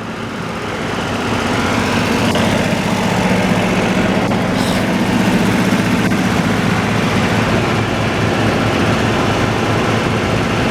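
Sawmill machinery running under power, its engine noise building over the first two seconds and then holding steady.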